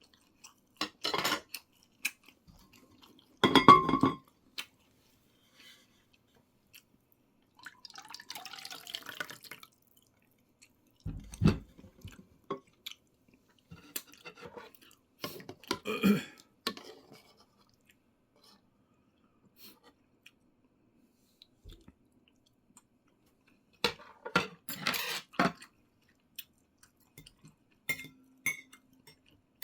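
Eating sounds: chewing, with utensils clicking against dishes, in short bursts separated by quiet gaps.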